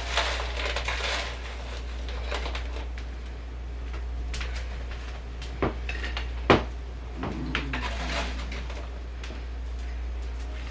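Dishes and cutlery clinking and clattering as they are handled, with two sharp knocks a little past the middle, the second the loudest.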